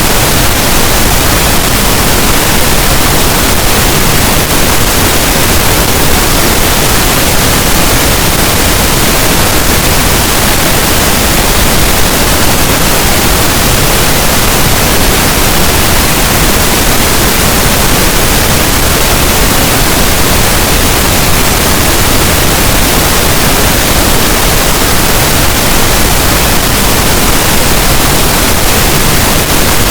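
Steady pink noise: an even, unchanging hiss spread from the deep end up to the highs, with no rhythm or breaks.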